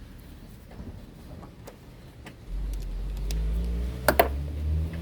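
Faint tool clicks while a small nut is worked loose. About halfway in, a steady low engine hum of a vehicle starts and keeps going, with two sharp metallic clicks near the end.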